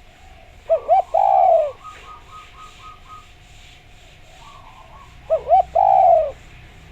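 Spotted dove (derkuku) cooing: two call phrases about four and a half seconds apart, each of two short notes followed by a longer falling coo. Faint quick chirps come between the phrases.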